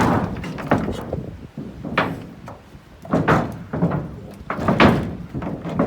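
A storm-torn roofing sheet hanging loose and banging and rattling against the house in strong wind, in irregular clusters of clattering knocks.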